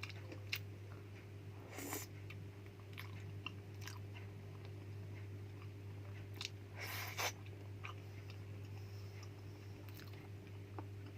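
A person chewing and biting food close to the microphone, with scattered small crunches and mouth clicks. Two louder crunchy bites come about two seconds in and about seven seconds in, over a steady low hum.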